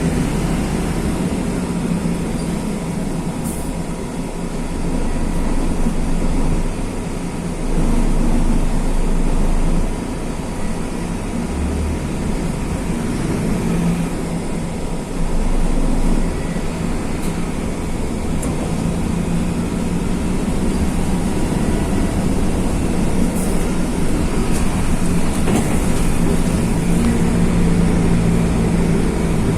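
Mercedes-Benz OF-1519 city bus's OM-924 LA four-cylinder turbodiesel running under way, its note swelling louder about eight seconds in and again around fifteen seconds as the bus pulls.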